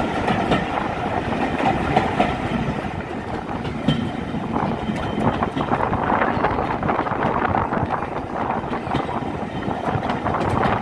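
Steam-hauled passenger train running, heard from an open carriage window: steady rushing noise with the carriage wheels clattering over the rails.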